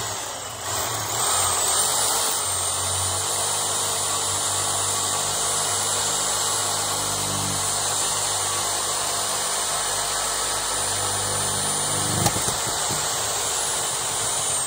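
Reciprocating saw cutting through a PVC drain pipe to remove a backwards-installed sanitary tee from the sewer line. The motor speeds up about a second in and runs steadily, with one sharp knock about two seconds before the end.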